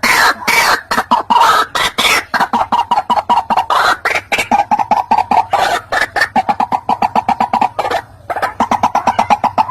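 White-breasted waterhen calling: a fast run of repeated clucking, croaking notes, about seven a second, with a brief pause about eight seconds in. This is the call played to lure waterhens in.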